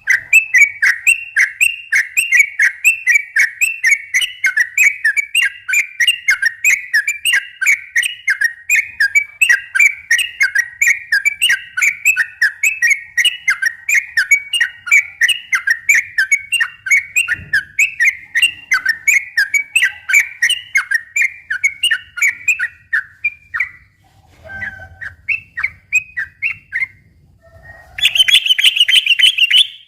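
Yellow-vented bulbul (trucukan) singing its rapid chattering 'ropel' song: a long unbroken run of quick repeated notes, several a second, for over twenty seconds. It breaks into a few scattered notes, then a brief, louder, higher-pitched burst near the end.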